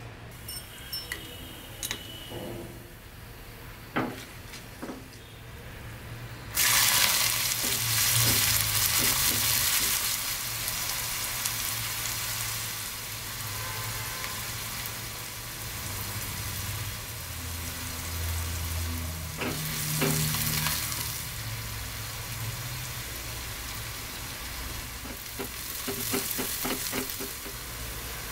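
Cumin seeds, chopped onions and green chillies frying in hot oil in a nonstick kadai, stirred with a spoon. A few clinks at first, then a loud sizzle starts suddenly about six seconds in and carries on steadily.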